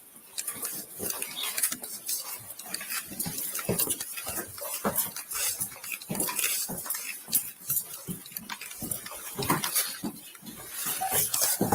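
Irregular light clinking and knocking, many small clicks close together, from a police officer's body-worn gear jostling as he moves.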